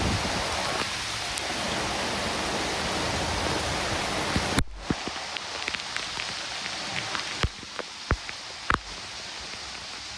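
Rain falling as a dense, steady hiss that cuts off abruptly about halfway, giving way to lighter rain with scattered sharp drops striking nearby surfaces.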